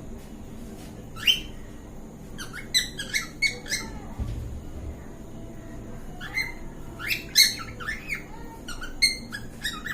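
Cockatiel giving its mating call: short, sharply rising whistled chirps in quick clusters, with a single note about a second in, then bursts in the middle and again near the end.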